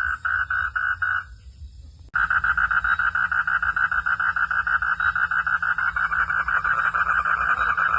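Frogs calling at night: a rapid, even train of pulsed calls that breaks off about a second in and starts again abruptly about a second later, denser and louder.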